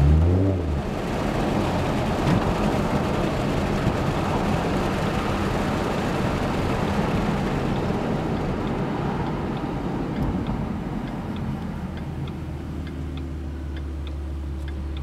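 2011 Mustang V6 with a Roush axle-back exhaust: the revs climb briefly right at the start, then it drives on with a broad rush of road noise under the exhaust drone. In the last few seconds it settles to a steady low exhaust hum, a little quieter.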